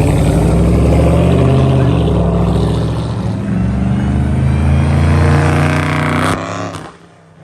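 Car engine revving hard, its pitch climbing over several seconds, then cut off abruptly near the end.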